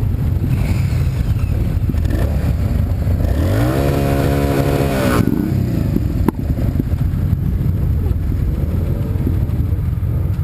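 A car's engine and road noise run steadily while driving. Around the middle, a louder engine note rises in pitch, holds for about a second, then falls away. A single sharp knock comes about six seconds in.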